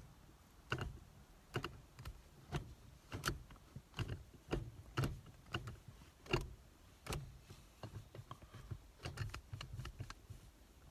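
Manual gear shifter in a Ford Mustang S550 being worked by hand with a newly fitted aftermarket shift knob: a faint, irregular series of clicks and knocks, about one or two a second.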